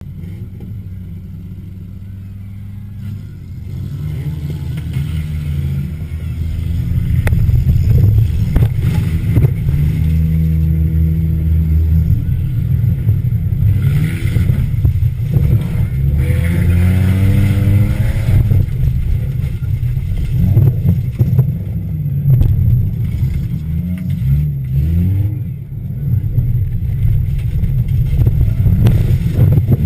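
Mazda Protegé derby car's engine heard from inside its stripped cabin, running and revving up and down again and again, with scattered knocks and clatter. It is quieter for the first few seconds, then louder as the revving begins.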